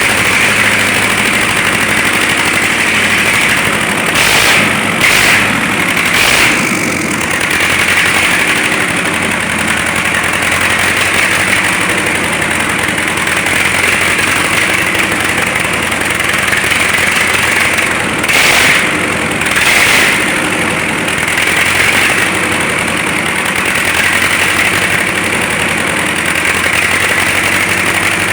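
DT-75 crawler tractor's diesel engine running steadily at idle after a major overhaul, briefly getting louder a few times.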